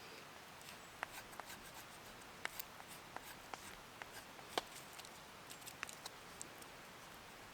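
Scattered small clicks and ticks at irregular intervals over a faint steady hiss, the loudest about halfway through.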